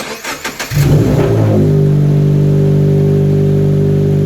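Subaru BRZ's flat-four boxer engine being cranked by the starter, catching within about a second, flaring up in revs and settling into a steady, loud high idle. It is starting normally after its engine bay was washed with water.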